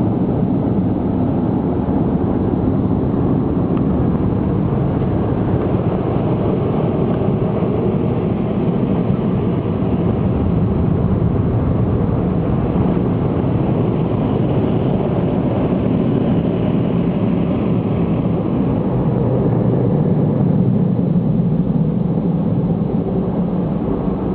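Automatic car wash machinery running, heard from inside the car's cabin: a steady, loud rumbling noise.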